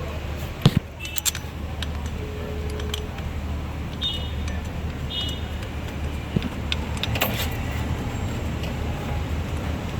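Metal clinks and knocks of hand tools and bolts during engine-bay reassembly, with one sharp knock just under a second in and a few lighter clicks later, over a steady low hum.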